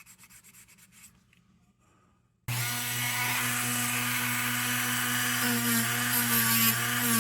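Brief, faint strokes of hand rubbing on metal, then a small electric power tool switches on about two and a half seconds in and runs steadily with a humming whine.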